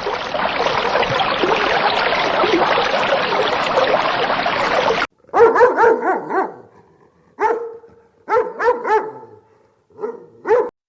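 About five seconds of a dense din of many overlapping calls, which cuts off sharply. Then a dog barks in short, high, yappy bursts, several in quick succession, with gaps between the groups.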